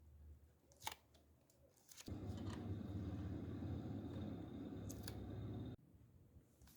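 A few light clicks, then a small electric device buzzing steadily for about three and a half seconds, switching on and cutting off abruptly.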